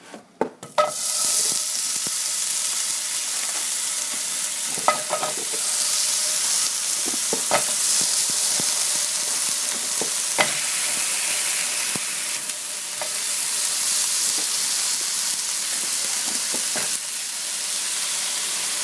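Sausages frying in a hot pan: a loud, steady sizzle that starts about a second in, with a few sharp clicks through it.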